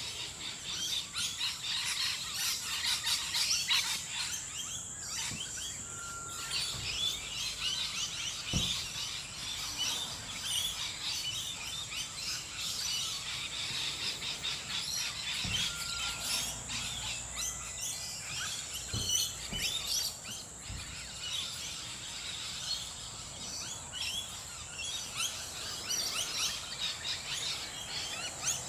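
Dense dawn chorus of many birds chirping and calling together, over a steady high-pitched hum. A few soft low thumps come through.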